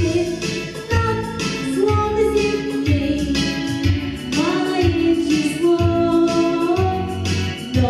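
A female voice singing a song over instrumental accompaniment with a steady beat.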